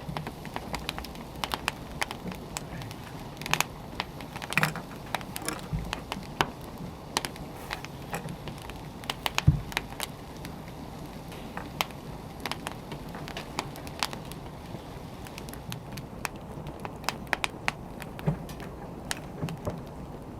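Wood fire burning, with a steady low hiss and frequent irregular crackles and pops from the burning logs; one sharper pop stands out about halfway through.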